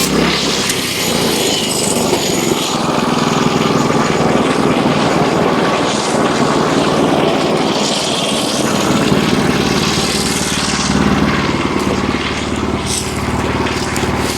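Wood-Mizer LX25 portable bandsaw mill running steadily with its band blade spinning, just after the blade clears the hemlock beam at the end of a resaw pass. The high sawing hiss fades right at the start, leaving a steady engine drone.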